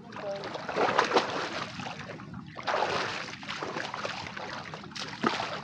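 Water splashing and sloshing as a person swims and bathes in shallow water, coming in irregular surges with a short lull about two and a half seconds in.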